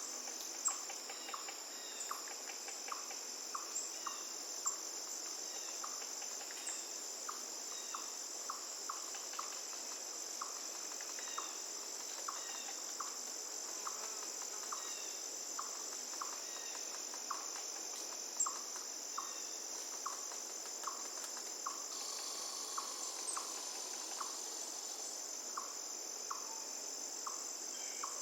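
Steady high-pitched drone of a chorus of insects such as crickets, with short chirps repeating about one to two times a second over faint background noise.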